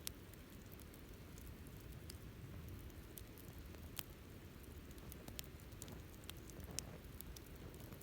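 Wood fire crackling: irregular sharp pops and snaps over a low, steady rush, with the loudest snaps right at the start, about four seconds in and near seven seconds.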